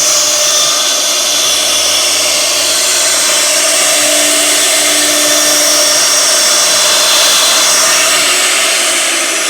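CNC router's spindle running steadily as it carves wood, a continuous whir with cutting noise and no breaks.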